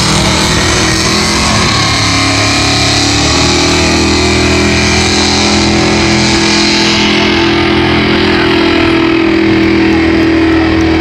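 Competition pulling tractor's engine running loud at full throttle. Its pitch settles and holds steady from about three seconds in, and the hissy top end fades in the second half.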